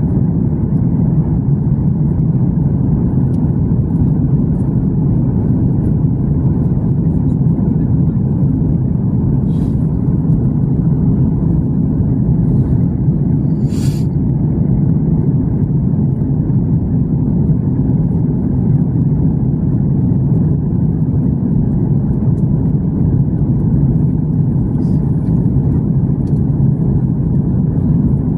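Airliner cabin noise: a steady, loud, low rumble heard from inside the passenger cabin during the approach. A brief click sounds about fourteen seconds in.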